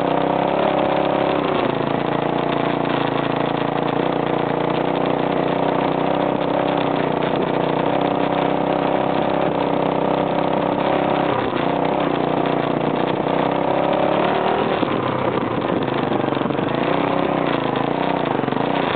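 Husaberg 450 enduro motorcycle's single-cylinder four-stroke engine running at steady part throttle while riding, its pitch dipping briefly just past halfway and swaying up and down with the throttle near the end.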